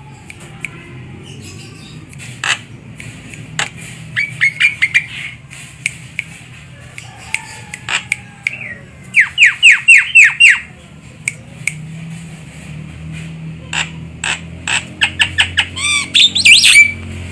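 Javan myna calling: runs of short, harsh, repeated notes, a fast burst of about seven near the middle and a denser cluster near the end, with sharp clicks between.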